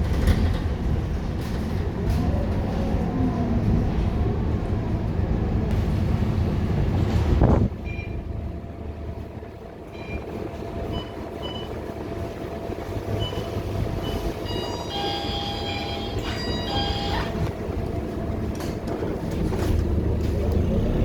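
Scania K230UB Euro 4 single-deck bus engine running. About seven seconds in it drops to a quieter idle, with a series of short electronic beeps. The engine noise builds again near the end.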